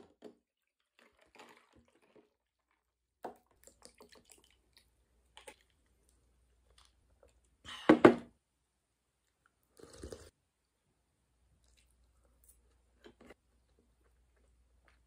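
Close-up eating sounds from a person chewing food at the table: scattered soft chewing and small mouth and utensil noises, with one louder burst about halfway through.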